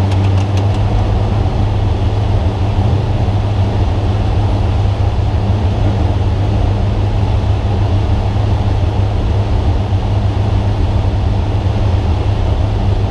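A Spec Trophy Truck's engine running steadily at an unchanging pitch, heard from inside the cab, with a few faint clicks about a second in.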